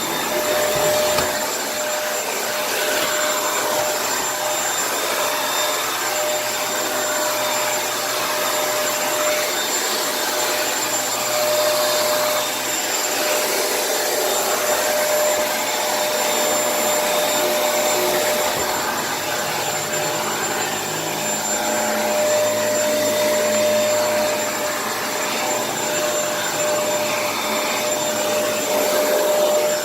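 Kenmore vacuum cleaner running steadily, a rush of air with a steady whine over it.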